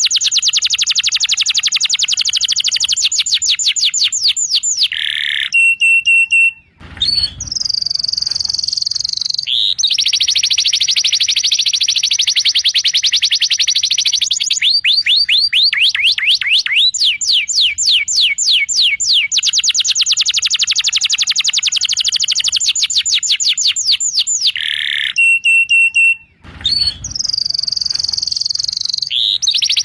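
Domestic canary singing loud, fast repeated trills and rolls, shifting between phrases of different pitch and speed with short pauses. The same run of phrases comes round again about twenty seconds later, as a looped recording does.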